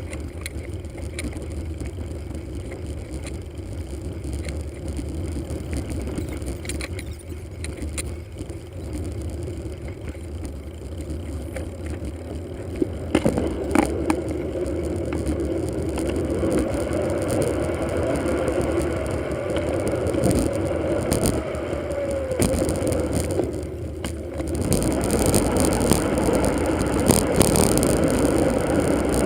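Bicycle ride sound played back at four times speed: continuous rushing road, tyre and wind noise from riding. A wavering hum comes in midway, and the noise grows louder near the end.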